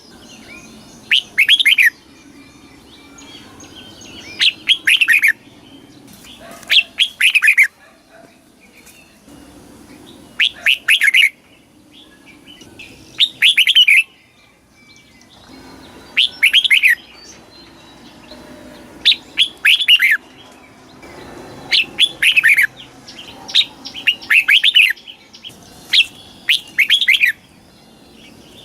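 Red-whiskered bulbul singing: short phrases of a few quick, falling notes, repeated every two to three seconds.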